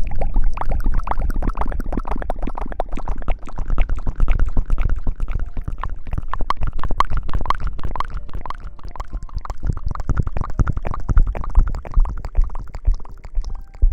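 Close-miked ASMR rubbing and scrubbing on the microphone: dense, rapid crackling with low rumbling thumps.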